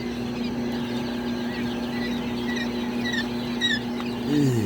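Chicks peeping, many short high downward-sliding peeps over a steady low hum. Near the end a louder low sound slides down in pitch.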